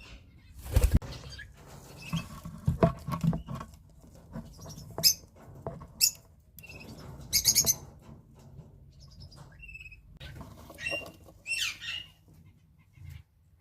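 Eastern rosellas moving about, with irregular knocks and rustles and a few short, high calls, the calls strongest near the end.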